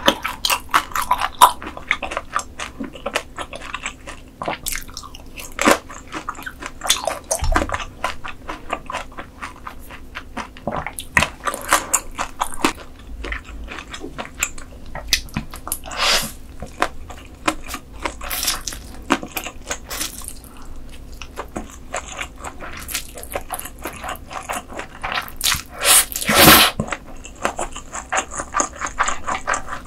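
Close-miked eating: bites and chewing with many sharp, irregular crunches and wet crackles, a louder burst of crunching near the end.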